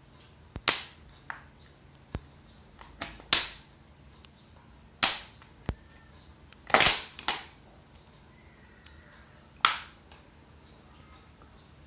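A thin plastic bottle giving sharp cracks as a utility knife (cutter) punches and cuts holes in its bottom: about six loud cracks at irregular intervals, with a few fainter clicks between.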